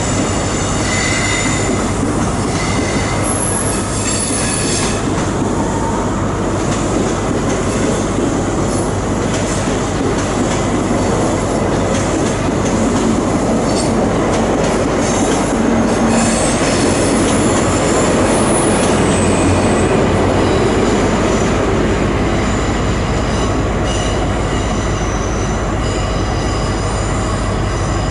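A train moving along the track, with steady wheel-on-rail noise and thin high-pitched wheel squeals that come and go.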